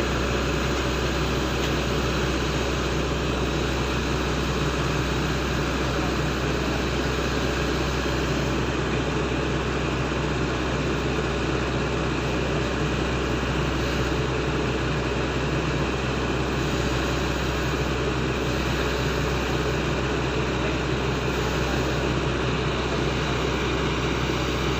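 Heavy diesel engine running steadily at a constant speed, with no revving or pauses.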